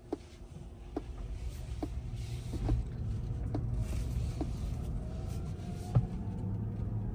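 Inside the cabin of a Rivian R1T electric pickup while driving: low road rumble with no engine sound, a regular click a little under once a second, and faint rising squeaks ('weet, weet') that the owner takes for the air suspension shocks.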